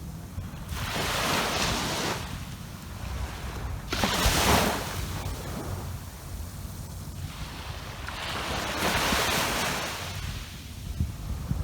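Sea waves breaking on a beach in a series of washes of surf that swell and fade, three surges in all, the one about four seconds in the sharpest, over a steady low rumble that may include wind on the microphone.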